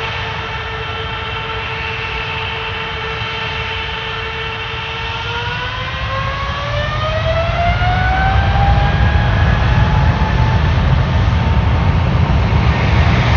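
Boeing 777F's GE90 turbofan engines running with a steady whine, then spooling up: about halfway through, the whine rises in pitch over a few seconds and a deep rumble grows louder as takeoff thrust comes on.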